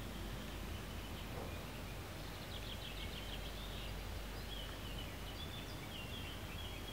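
Outdoor ambience of a steady low rumble, with small birds chirping faintly: a quick run of high chirps about two seconds in and another run of short chirps from a little past halfway.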